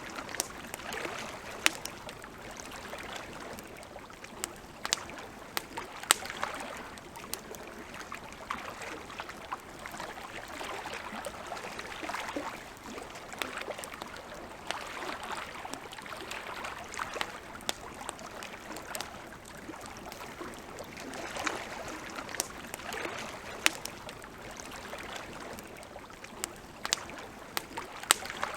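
Wood campfire crackling, with sharp pops scattered irregularly over a soft hiss, alongside small waves lapping at the lake shore in gentle swells every second or two.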